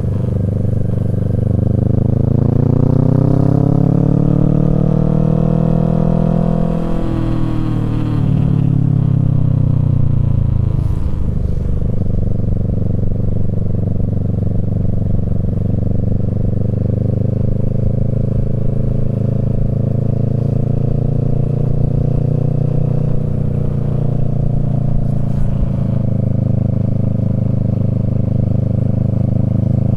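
Kawasaki Z650's parallel-twin engine through a Yoshimura Alpha exhaust, ridden on the road. The engine note climbs for about six seconds, drops back, then holds steady at a cruise.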